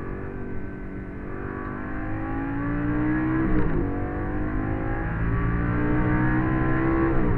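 Lamborghini engine accelerating hard at full throttle, heard from inside the cabin: its pitch climbs, drops sharply with an upshift about three and a half seconds in, then climbs again to another upshift near the end.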